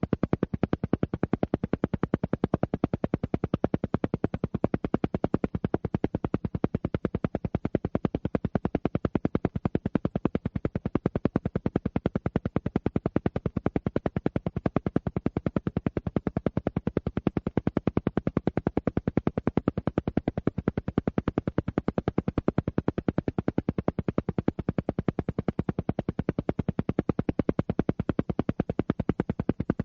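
Alpha-wave entrainment track: a steady, rapid train of even pulses, many a second, repeating without change. It is the pulsing used to draw the brain toward the alpha range.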